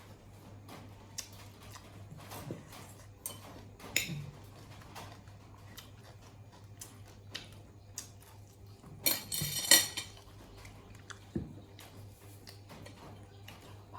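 Scattered light clinks and taps of tableware being handled, with a louder burst of noise lasting about a second about nine seconds in.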